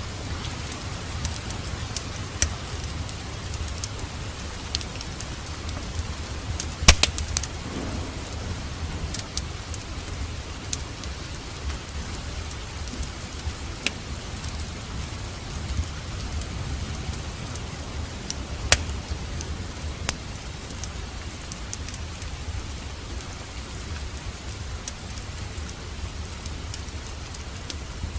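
Steady rain over a low, even rumble, with a wood fire crackling: scattered sharp pops, the loudest about seven seconds in and again past halfway.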